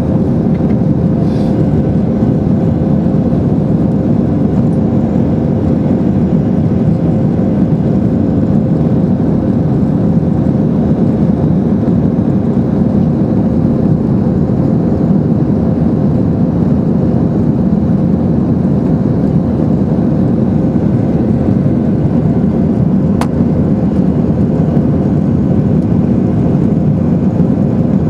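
Steady cabin noise of a Boeing 747 in flight: a constant drone of engines and rushing air, with a faint steady hum.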